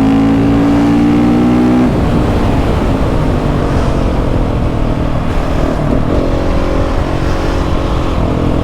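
KTM 690 SMC R single-cylinder engine accelerating hard in fifth gear, its note rising steadily. About two seconds in the throttle is shut and the even note breaks off into a rough, uneven sound, and a steady engine note returns about six seconds in.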